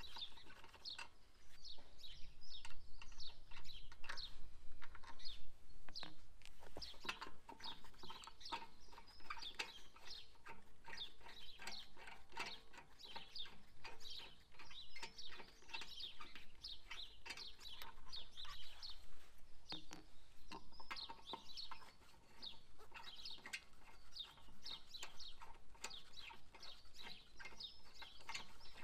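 Birds chirping and chattering, many short calls in quick succession.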